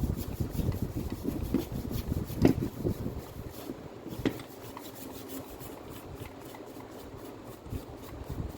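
Grinder parts being handled during repair: irregular rubbing and scraping, with a few sharp knocks, the loudest about two and a half seconds in and another about four seconds in.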